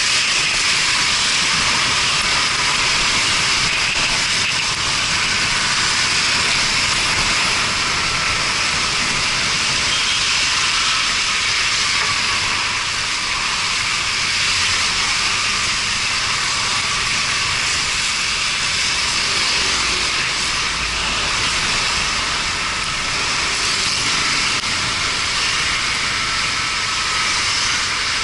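Steady hissing rush of wind and wet road spray on a Yamaha Fazer 250 motorcycle riding in the rain, with faint engine tones rising and falling underneath now and then.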